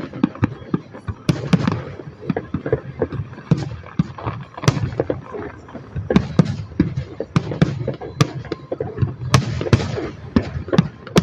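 Fireworks display: a dense, irregular run of bangs and crackling bursts, several a second, with no let-up.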